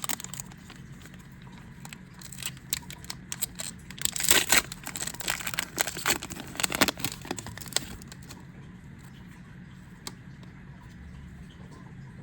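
Foil booster pack wrapper being crinkled and torn open by hand: a run of crackly rustling and ripping from about two seconds in until about eight seconds in, then a single faint click.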